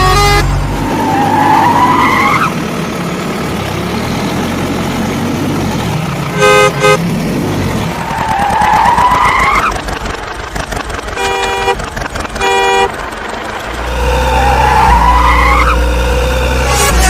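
Added vehicle sound effects: a horn honks in short toots, twice around the middle and twice more a few seconds later, between three rising swoops spaced about six seconds apart, with a low steady hum returning near the end.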